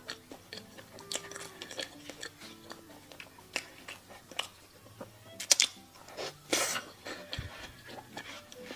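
Close-up chewing and biting of food, with irregular crisp crunches and wet mouth clicks, the loudest about five and a half and six and a half seconds in. Soft background music plays under it.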